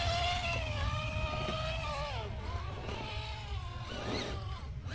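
Electric motor and gearbox of an RC rock crawler whining as it climbs, the pitch drifting up and down with the throttle, over a low rumble.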